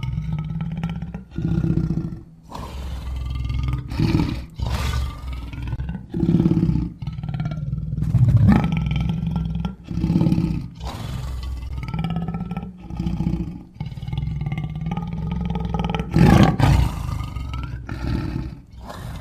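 Lions roaring and growling in a string of short calls with abrupt breaks between them; the loudest come about eight and sixteen seconds in.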